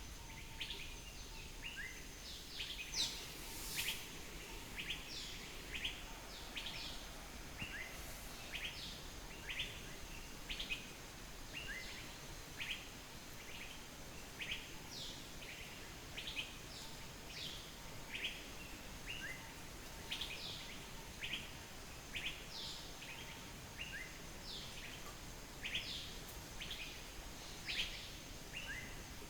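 Small birds chirping continually: many short, quick downward chirps, a few each second, over a steady rushing background noise.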